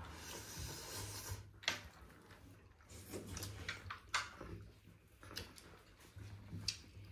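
Eating close to the microphone: faint chewing with scattered soft clicks and taps, over a steady low hum. The food is a mouthful of fried dried buffalo meat (sikuti).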